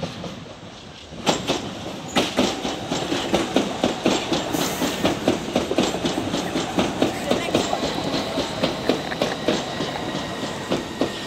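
Southeastern Class 395 'Javelin' electric train running through, its wheels clicking steadily over the rail joints and pointwork. The sound grows loud about a second in as it reaches the camera.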